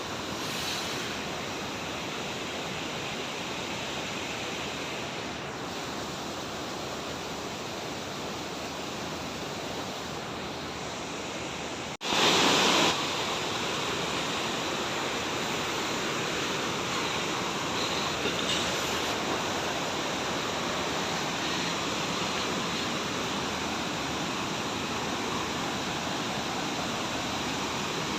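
Steady rushing of a large waterfall. About twelve seconds in it breaks off sharply, comes back louder for about a second, then carries on slightly louder than before.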